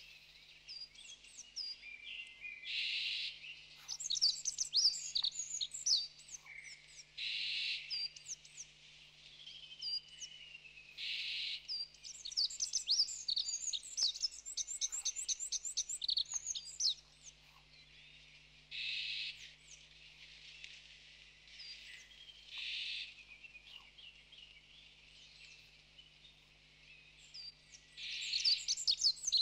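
Small birds chirping and twittering in quick runs of high notes, broken by several short hissy bursts.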